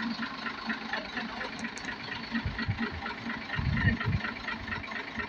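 Engine idling with an even pulse, with a few low thuds about halfway through.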